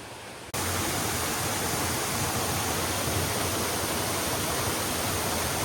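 Waterfall pouring steadily into its pool, a dense rushing of water heard close up. It starts softer and jumps abruptly louder about half a second in.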